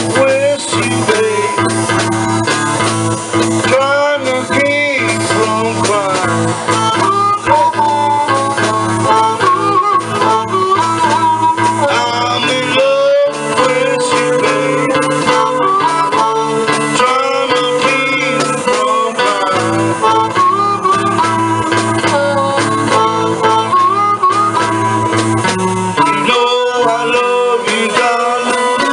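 Live acoustic blues: a harmonica wailing and bending notes over a plucked guitar accompaniment.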